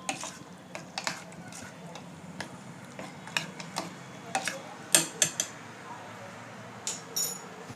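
Chicken pieces being mixed with egg and spices in a bowl for a marinade: irregular clinks and taps against the bowl.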